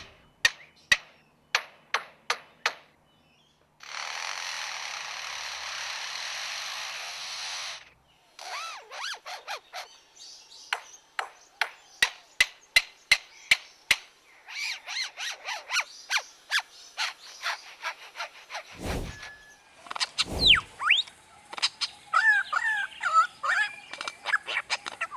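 Superb lyrebird mimicking other sounds: a string of sharp clicks like camera shutters, about four seconds of steady mechanical-sounding noise, then more quick clicks, ending in whistled, gliding bird calls.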